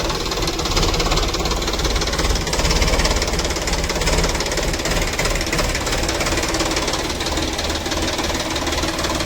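A heavy machine's diesel engine running steadily with a fast, even knocking clatter.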